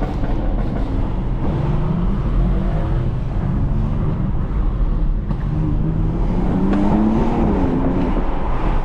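Car engine and exhaust running in traffic: a steady low drone whose pitch rises and falls a few times as the revs change.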